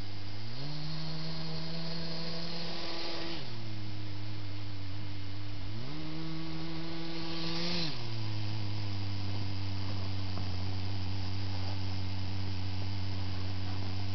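Electric drive motors of a Kyosho Blizzard RC snow groomer whining steadily at a low pitch, speeding up twice to a higher pitch for two to three seconds each time, then settling back.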